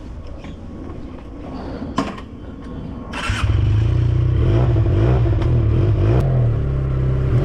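A click about two seconds in, then the Benelli 302S motorcycle's parallel-twin engine starts just after three seconds and runs at a steady idle.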